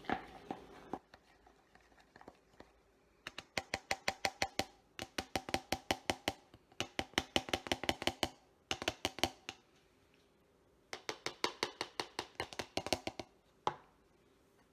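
A spoon stirring thick brownie batter in a cup, clinking against the cup's side in quick runs of about six knocks a second, with short pauses between the runs.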